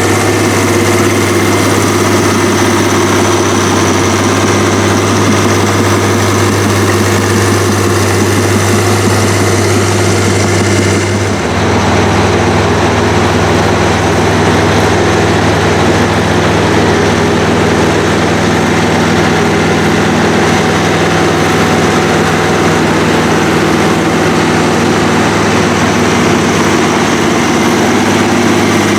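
Heavy farm diesel engine running steadily under load in deep plowing, loud throughout. About a third of the way in the tone changes abruptly, a lower drone taking over, then holds steady.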